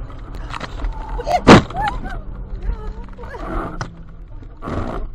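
A single loud, sharp bang about a second and a half in, over a steady low road rumble, typical of a car collision heard from inside a vehicle.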